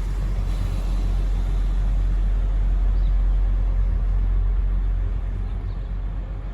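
Class 175 diesel multiple unit's underfloor diesel engines running at the platform, a deep steady rumble that swells a little and eases off near the end.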